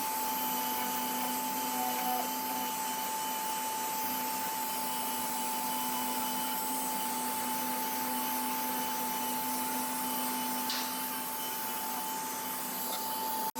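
Steady whirring hiss of a running machine with a constant hum, cut off abruptly near the end.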